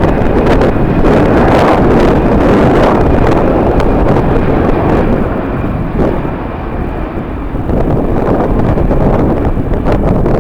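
Strong wind gusting and buffeting the microphone, loud and unsteady, easing briefly about six seconds in before picking up again.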